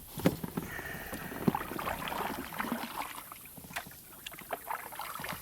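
Scattered knocks and clicks with rustling from a fishing kayak and the gear in it, with light water noise.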